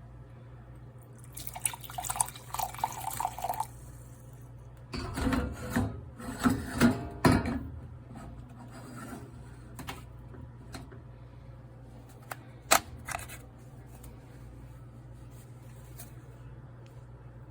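Handling noises: a stretch of scraping and rubbing, then a louder clatter of knocks and rattles, then a few sharp clicks, over a steady low hum.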